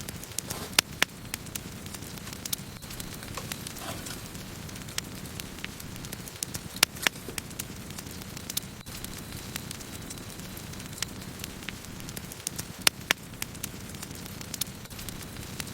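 Wood campfire burning: a steady low rush of flames with sharp, irregular crackles and pops of burning wood, a few louder pops scattered through.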